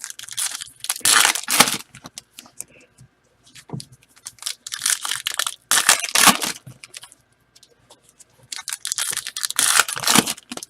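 Card-pack wrappers and packaging being torn open and crinkled by hand, in three bouts of ripping and rustling separated by short pauses.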